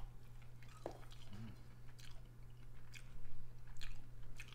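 A person chewing a mouthful of food, with faint wet clicks and crunches, over a steady low hum.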